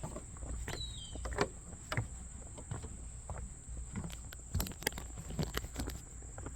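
Footsteps on a garden path, irregular scuffs and knocks, over a steady high drone of insects, with a couple of short falling bird chirps about a second in.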